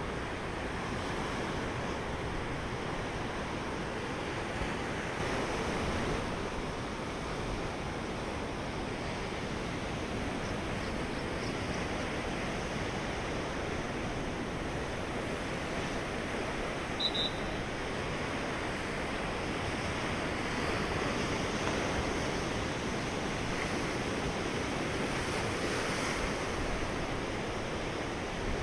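Heavy surf from a stormy sea breaking continuously along the shore, a steady rush of water that swells slightly now and then, with some wind on the microphone. A short high chirp comes about two-thirds of the way through.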